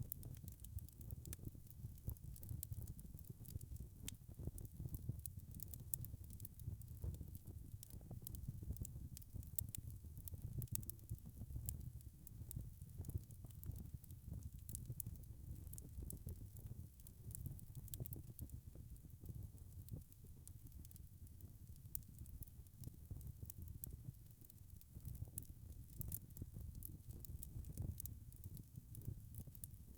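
Log fire crackling: frequent small, sharp pops and snaps over a low, steady rumble of burning wood.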